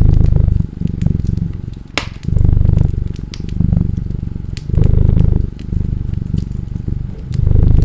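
A cat purring close up, a deep pulsing rumble that swells on every breath, louder and softer phases alternating about every second and a quarter, over a wood fire's crackles and sharp pops, the strongest pop about two seconds in.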